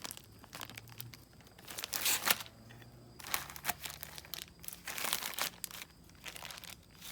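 Packaging crinkling and tearing in irregular bursts as a new snowblower friction disc is unwrapped.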